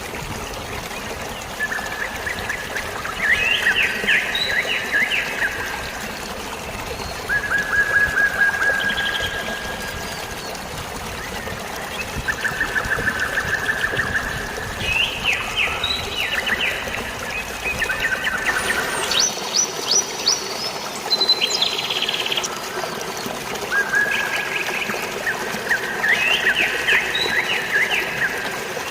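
Songbirds singing short trilled phrases every few seconds over a steady wash of flowing water. About two-thirds of the way through, the low rush of the water thins out and higher, busier bird calls come in.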